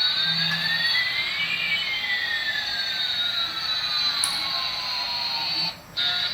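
Synthetic jet-engine sound effect: a steady hiss with a high whistle, and two whistling tones, one climbing and one sinking, that cross each other. The sound drops out briefly near the end.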